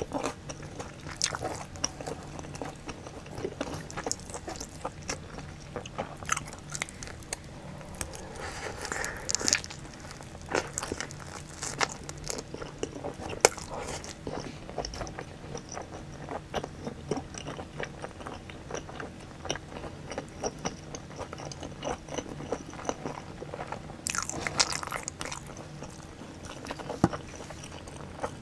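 Close-miked biting and chewing of spicy-sauced boneless fried chicken and pizza crust, with frequent irregular crunches and crackles.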